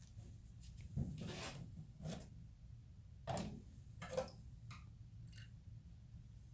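Light, irregular clicks and short rubbing sounds from small greasy metal fuel-injector parts being handled and wiped on a bench, about one every second, over a steady low hum.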